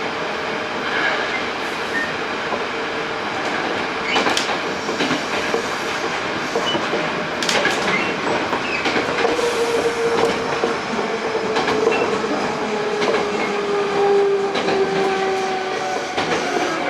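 Running noise inside a Hankyu 8000 series electric train car with Toshiba GTO-VVVF traction equipment. The wheels click over rail joints, and a steady hum slides slowly lower in pitch over the second half.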